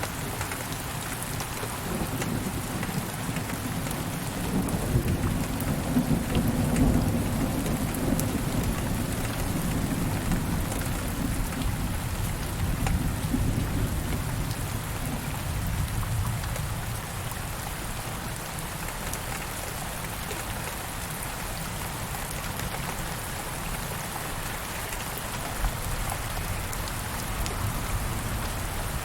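Steady rain falling, with a low rumble of distant thunder in the first half that fades away by about halfway through.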